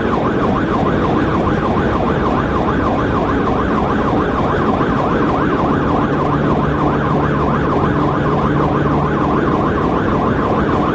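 Police siren in fast yelp mode, a rapid rising-and-falling wail about four to five times a second, over steady road and engine noise from the pursuing cruiser.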